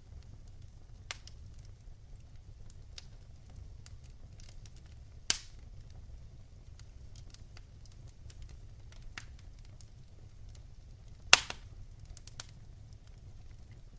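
Wood fire crackling in a fireplace: scattered small clicks over a low steady rumble, with two loud pops about five seconds and eleven seconds in.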